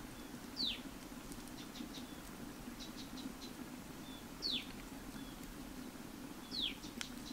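A bird calling: three short, high whistles sweeping downward, about two seconds apart, each with a faint short note just before it, and a few soft ticks in between. A low steady hum runs underneath.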